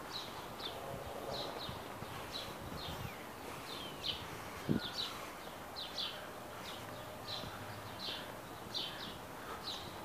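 A bird chirping over and over, short high notes sliding downward about twice a second, over faint outdoor background noise. A single short knock sounds about halfway through.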